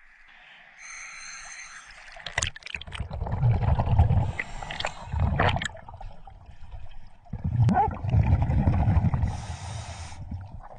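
Scuba regulator breathing underwater: hissing inhales and two long, rumbling gushes of exhaled bubbles.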